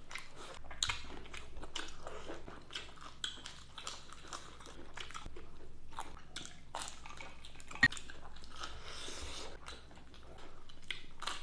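Close-up crunching and chewing of crispy fried food in a mukbang: many small, irregular crunches, with one sharper click about eight seconds in.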